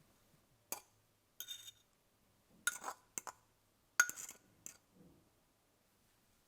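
Glassware clinking: about six light knocks and taps spread over some four seconds, a few of them ringing briefly.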